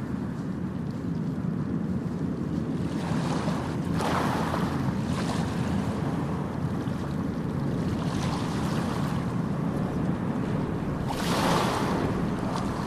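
Ocean waves washing onto a beach: a continuous low rumble of surf, with louder washes of breaking water about four seconds in and again near the end. Wind buffets the microphone.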